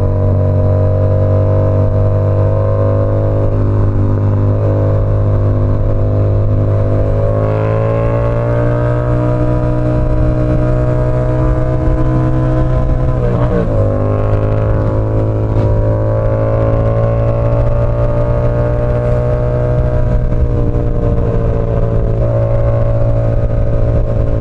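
Yamaha R7's parallel-twin engine running through an SC Project CR-T exhaust while riding. The note climbs about a third of the way in, breaks briefly just past halfway, and settles lower again near the end.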